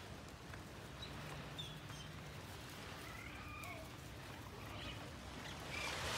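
Beach ambience with a few short, wavering bird calls over a low steady rumble. Near the end a wave washes up onto the shore.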